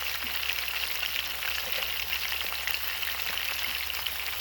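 Chicken frying in a pot: a steady sizzle peppered with many small pops.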